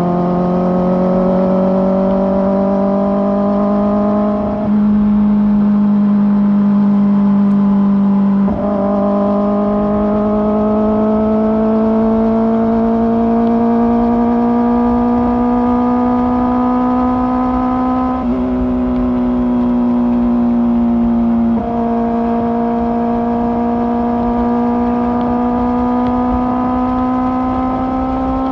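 Kawasaki ZX-4R inline-four with an Akrapovic exhaust, running steadily under gentle acceleration. Its note climbs slowly and is cut by four quick gear changes, about 5, 9, 18 and 22 seconds in.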